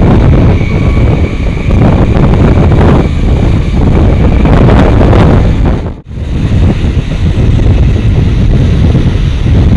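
Wind buffeting the microphone over the steady rumble of a moving passenger train. The sound cuts out for a moment about six seconds in, then resumes.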